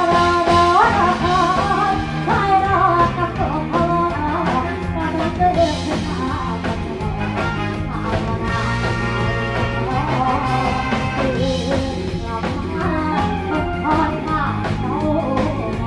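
Band music with singing over a steady drum beat and bass line.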